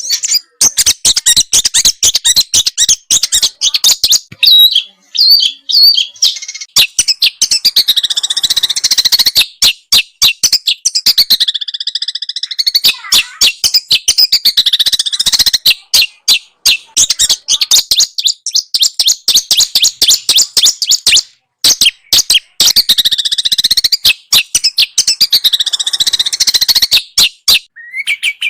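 Small songbird singing a loud, rapid, almost unbroken chattering song of sharp high notes and repeated swooping phrases, with a couple of brief pauses.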